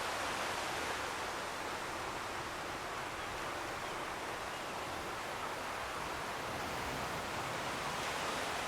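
Steady, unbroken rushing of coastal ambience: distant sea surf and breeze, with no separate events standing out.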